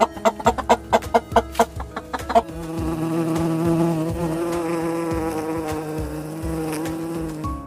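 A chicken clucking in a quick run of short notes, then about two and a half seconds in a steady, even-pitched buzzing drone takes over.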